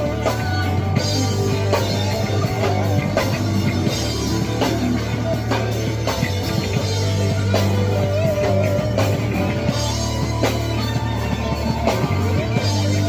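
Rock band playing an instrumental passage: a drum kit keeping a regular beat over a steady bass line, with guitar carrying a wavering melody.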